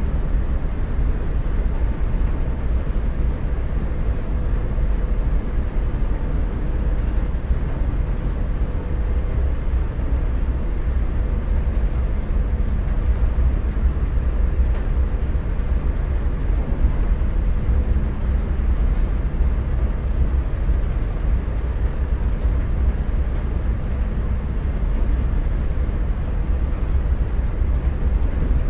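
Boat's engine running steadily under way: a constant low rumble with a faint steady hum above it.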